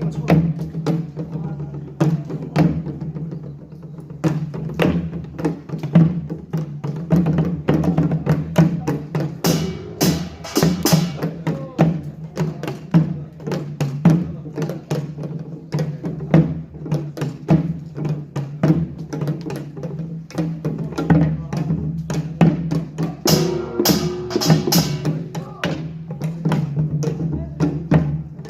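Pungmul percussion ensemble playing a fast, dense rhythm: drums and clanging small gongs struck together, with louder, brighter bursts about ten seconds in and again around twenty-three seconds.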